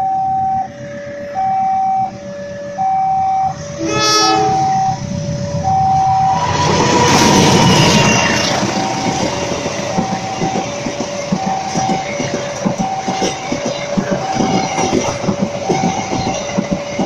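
Railway level-crossing alarm sounding a steady two-tone alternating chime, with a short train horn blast about four seconds in. From about six seconds a train passes close by, its wheels rumbling and clacking over the rail joints while the chime carries on.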